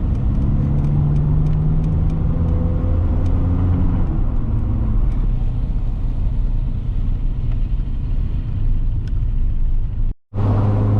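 Cabin sound of a 1993 SAAB 900 Turbo's 2.0-litre turbocharged four-cylinder engine under way, its pitch rising slowly for about four seconds, then easing off and running on steadily with road rumble. The sound cuts out for a moment near the end.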